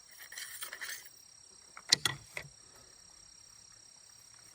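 Two sharp metallic clicks close together about two seconds in, with rustling just before: handling of a break-action single-shot 20-gauge shotgun's action. Crickets chirp steadily underneath.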